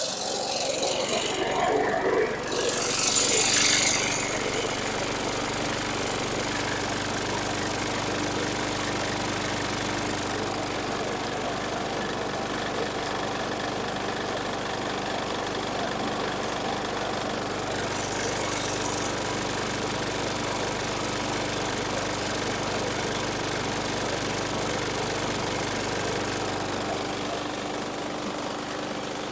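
Briggs & Stratton 450E series engine on a Murray push mower running at a steady speed. It now runs because the tight, dragging safety brake cable was moved enough to release the coil kill. There are two brief, louder hissing noises, one about three seconds in and one past the middle.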